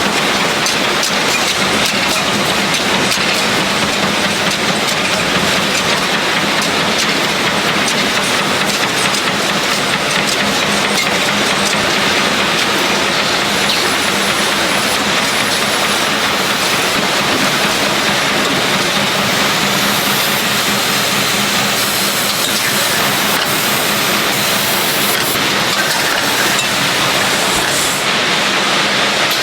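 Filter-production machinery running steadily: a loud, even clatter and hiss with a faint low hum underneath.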